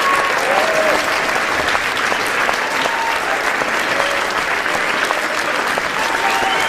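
Audience applauding steadily, the dense clatter of many hands clapping, with scattered shouts and cheers from the crowd rising above it.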